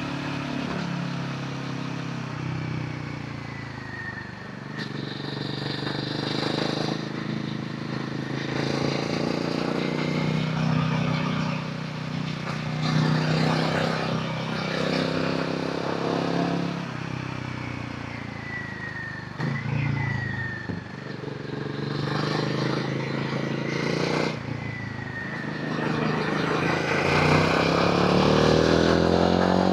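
Royal Enfield Himalayan 450's single-cylinder engine and exhaust under way on the road, the revs rising and falling several times through the gears and climbing near the end.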